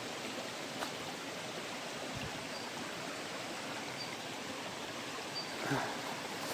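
Stream water running steadily, an even rushing, with a single light knock about a second in and a brief faint sound near the end.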